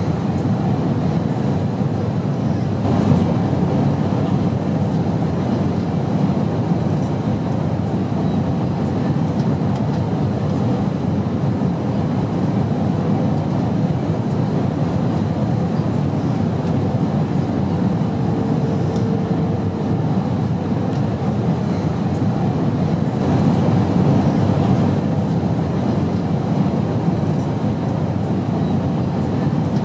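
Airplane noise: a steady, unbroken low rumble and rush of a plane in flight, with no change in level.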